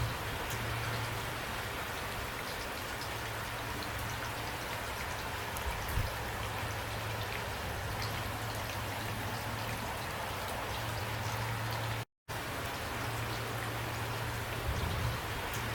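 Steady heavy rain, a dense even hiss with scattered individual drops ticking on a surface. The sound cuts out to silence for a split second about twelve seconds in, then resumes.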